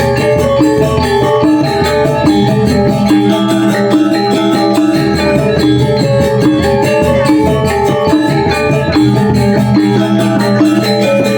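Balinese gamelan gong ensemble playing: many bronze metallophones ring out rapid, dense melodic patterns over a sustained low gong tone.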